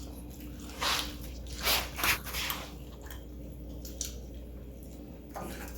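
Close-up eating sounds of fried chicken: short bites and wet chewing noises, about four in the first two and a half seconds and one more near the end.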